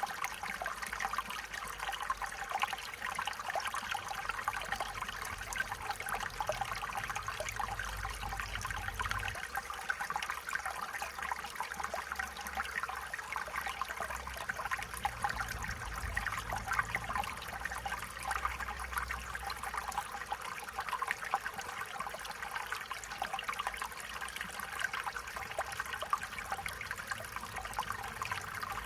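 Stream water trickling and babbling over stones, a steady bright splashing with a faint low rumble coming and going underneath.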